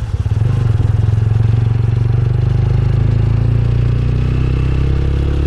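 Motorcycle engine running steadily while riding, its note shifting slightly about three seconds in.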